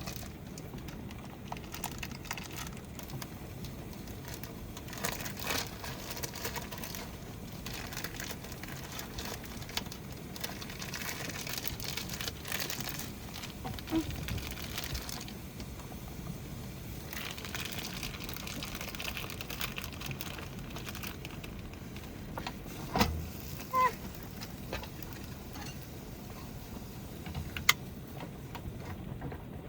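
Steady rain pattering on a van's roof, with scattered clicks, knocks and rustles of food and utensils being handled during cooking; a few sharper knocks come near the end.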